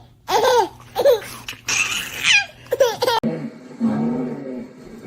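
Laughter in four short bursts, one of them a high squeal that falls in pitch, then a steadier, lower drone with a wavering tone for the last two seconds.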